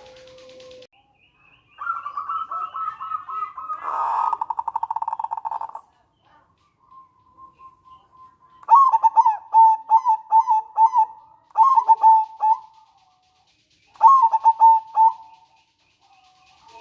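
Zebra dove (perkutut) calling: a run of quick pulsed notes that speeds into a fast rattling trill (the 'nretek'), then after a pause several phrases of short, clipped coos, the dove's 'manggung' song.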